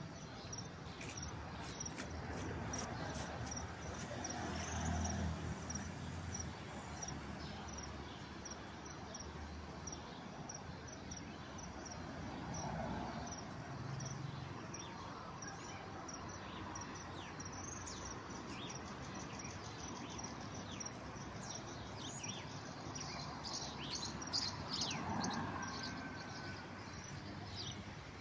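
Small birds chirping repeatedly over a steady outdoor hiss, with a faint low rumble about five seconds in.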